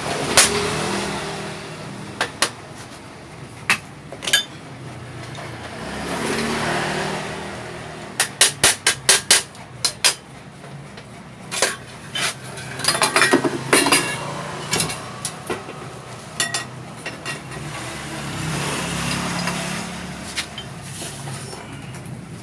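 Hammer blows on metal, sharp and irregular, with a quick run of about eight strikes about eight seconds in and another cluster a few seconds later, as a motorcycle exhaust is fabricated. Motor vehicles pass in the background, their hum swelling and fading twice.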